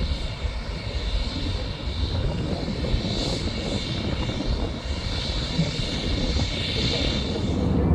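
Airbus A330 airliner's jet engines running: a steady low rumble with a high whine of several steady tones above it.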